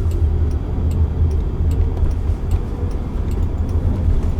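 Road and tyre noise heard inside a moving car's cabin: a steady low rumble.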